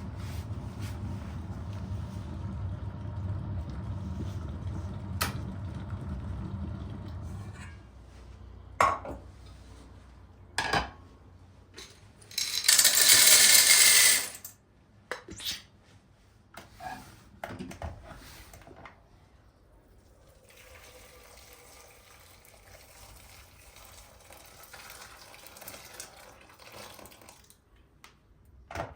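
Dishes and cutlery clinking and knocking, with a tap running for about two seconds in the middle. A low steady hum fills the first several seconds, then stops.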